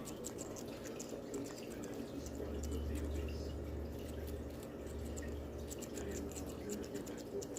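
Pet bird's beak nibbling and crunching a red pepper: small irregular clicks and crackles. A steady low hum runs underneath through the middle.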